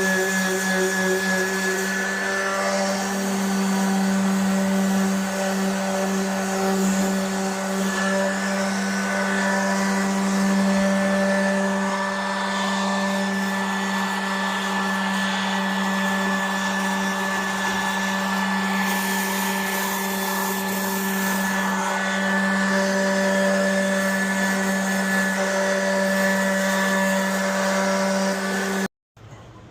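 Handheld electric power tool running steadily at constant speed, sanding rust off the go-kart seat's metal. It cuts off abruptly near the end.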